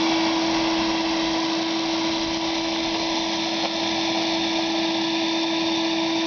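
Sears Craftsman 5 hp wet/dry shop vac running steadily with a constant motor whine and a rush of air through the shop floor nozzle.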